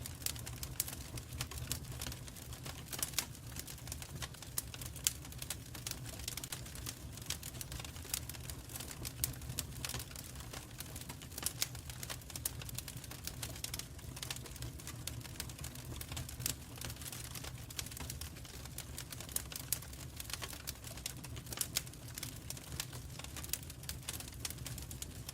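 Wood fire crackling in a fireplace: irregular sharp snaps and pops, several a second, over a low steady rumble of burning.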